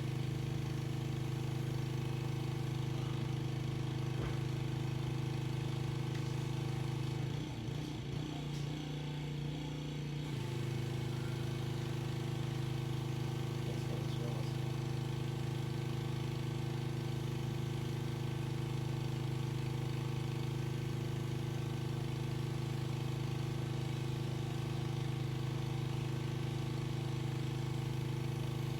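Pressure washer engine running steadily with an even drone. About seven seconds in, its note wavers and shifts for about three seconds, then settles back to the same steady running.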